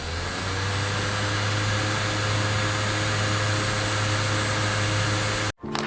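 A small electric motor and fan running steadily, a hum with an airy rush over it; its tone climbs slightly in the first second as it spins up, and it cuts off abruptly near the end.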